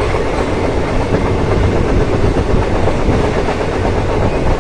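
Train in motion: a steady loud rumble and rattle of the carriage running over the rails.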